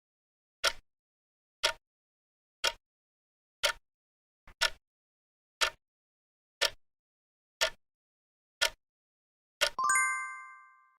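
Countdown timer sound effect ticking once a second, about ten ticks, then a bright chime of several tones near the end that rings and fades, marking the end of the 10-second answer time.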